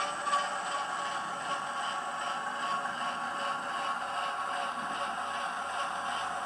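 Hornby Class 08 model diesel shunter's TTS sound decoder playing a steady diesel engine sound through the model's small speaker, with little or no bass, while the model runs.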